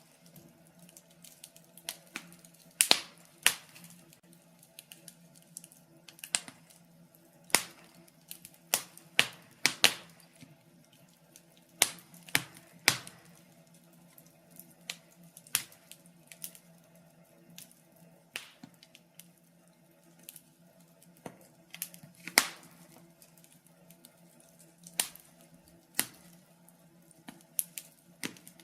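Wood logs burning in a fireplace, crackling and popping at irregular intervals, with several louder sharp snaps.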